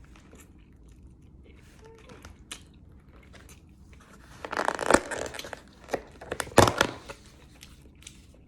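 Rustling and crinkling of takeout food packaging being handled: a few soft clicks, then two louder bursts of crinkling past the middle.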